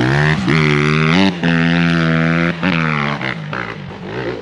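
Small pit bike engine revving hard: it rises sharply twice, holds at high revs for about a second each time, then drops back near the end.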